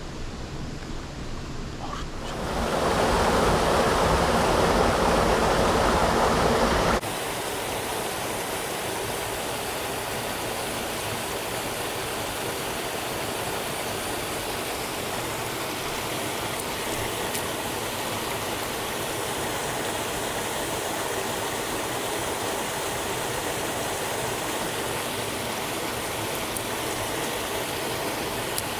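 Mountain stream water rushing over rocks, a steady hiss. For a few seconds near the start it is much louder and fuller, then drops suddenly to a lighter, steady rush.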